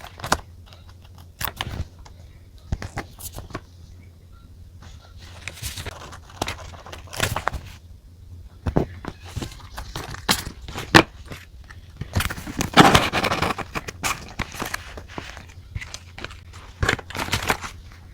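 Close-up desk sounds of diary stationery being handled: scattered clicks and taps of paper, sticker sheets and pens, with a longer crinkling rustle about twelve seconds in.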